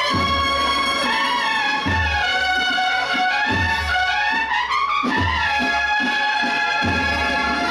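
A processional brass band playing a Holy Week march: sustained brass melody over low bass-drum strokes about every second and a half.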